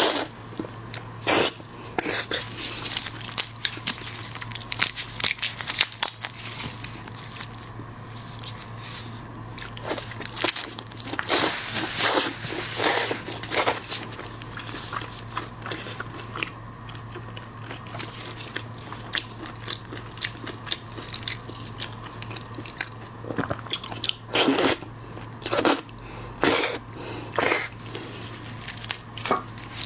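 Close-miked mukbang eating of seafood: irregular crunchy bites and chewing with sharp crackles. Louder bursts of crunching come about ten seconds in and again near the end, over a faint steady low hum.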